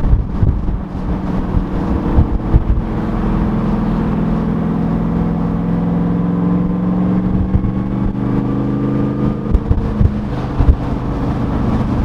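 De Tomaso Pantera's 351 Cleveland V8 running while the car is driven, its engine note climbing slowly through the middle as it gathers speed, with scattered short thumps over it.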